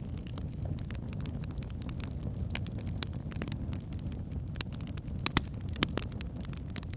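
Wood fire burning in a fireplace: a steady low rumble of flames with scattered sharp crackles and pops from the logs, the loudest a pair of pops a little past five seconds in and near six seconds.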